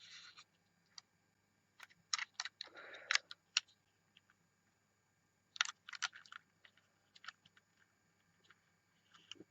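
Light clicks and taps of a small die-cast toy bus being handled and turned over, coming in two short clusters with a brief scrape about three seconds in.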